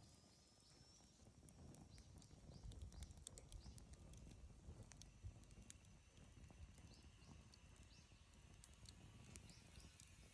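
Wood bonfire crackling, with scattered sharp pops and snaps over a low, faint rumble of burning.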